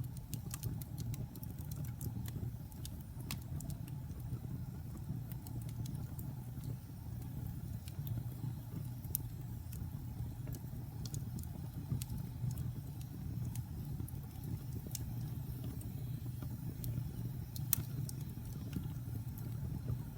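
Wood fire burning in a fireplace: frequent sharp crackles and pops from the logs over a steady low rumble of the flames, with one louder pop near the end.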